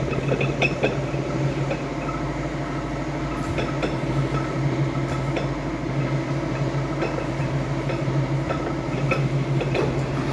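Rotary lobe gas meter (G160, 3-inch) turning steadily with a constant low hum and light irregular clicks. The noise comes from its lobed rotors, which the technician thinks are slightly damaged; the meter turns freely after maintenance but stays noisy.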